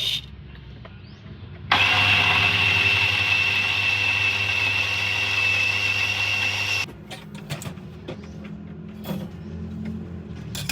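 A small electric café machine motor runs with a steady high whine over a hiss and low hum. It switches on about two seconds in and cuts off abruptly about five seconds later.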